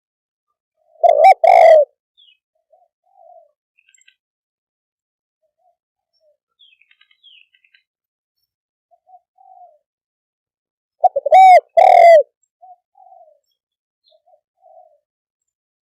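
Spotted dove cooing: two loud phrases about ten seconds apart, each a quick run of two or three rounded coo notes. Fainter answering coos come in between.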